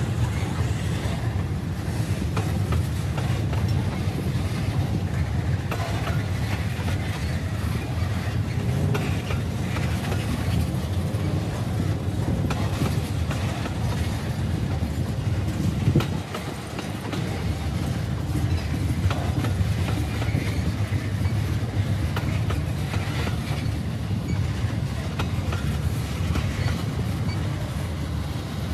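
Freight train's tank cars and refrigerated boxcars rolling past, a steady low rumble with wheels clicking over the rail joints. One sharper click stands out about halfway through.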